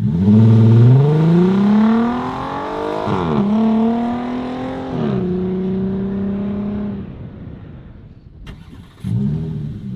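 Volkswagen Atlas 3.6 VR6 running through an aftermarket catback exhaust: the engine note climbs for about three seconds, drops, climbs again, then settles to a steady drone. Near the end, after a couple of clicks, the engine starts up with a quick flare of revs.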